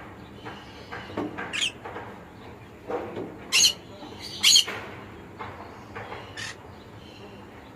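Conure giving four short, sharp squawks a second or two apart, with softer lower chatter between them.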